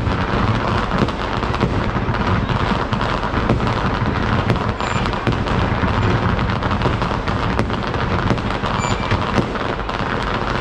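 Fireworks going off in a dense, continuous barrage of bangs and crackles with no break.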